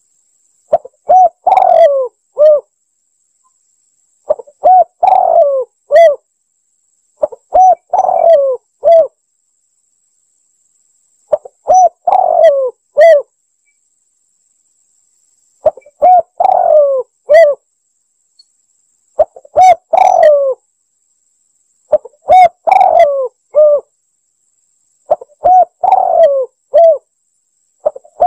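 Spotted dove (tekukur) cooing, played as a hunter's lure call. About eight phrases of several low coos each, repeating every three to four seconds with dead silence between.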